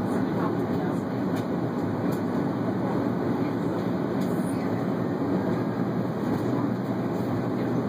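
Steady low rumble of Airbus A330 cabin noise from the engines and airflow, heard from inside the passenger cabin.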